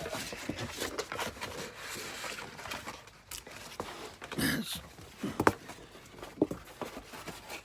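Handling noise of paper and packaged items: rustling with scattered light taps and knocks, and a sharper knock about five and a half seconds in.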